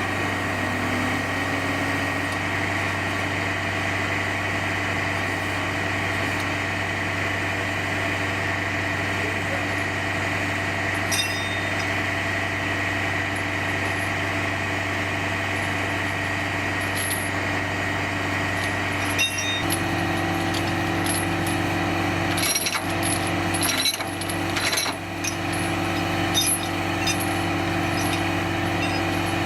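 Heavy truck's diesel engine running steadily at idle; about two-thirds of the way through it steps up to a higher, steady speed. Several sharp knocks and clanks of working gear come over it, mostly in the last third.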